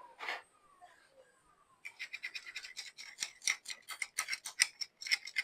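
Brush scrubbing out stuck coffee residue inside a coffee grinder. It starts about two seconds in as fast, scratchy strokes, about four or five a second. Before that, a faint falling whine dies away.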